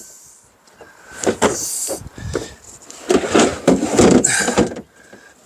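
Items being shifted and rummaged through: rustling with scattered knocks and clunks, busiest for about a second and a half past the middle.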